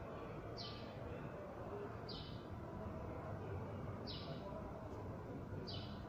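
A small bird repeating a short, high chirp four times, about every one and a half to two seconds, over a steady low background rumble.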